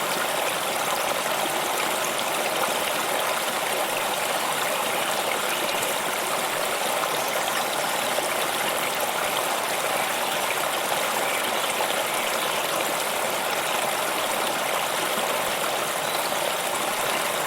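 A stream of water running and rushing steadily over rocks, an even splashing hiss with no change in level.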